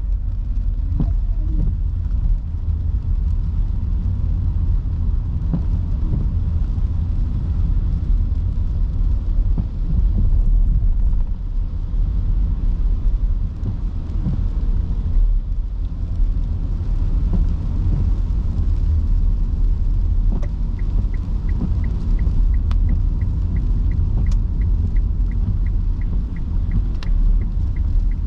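Steady low road and tyre rumble of an electric car driving on rain-soaked city streets. About two-thirds of the way through, a turn-signal indicator starts ticking, about three clicks a second.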